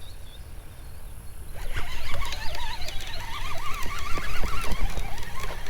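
Birds calling in quick, warbling, wavering notes that start about a second and a half in and continue, over a low steady rumble.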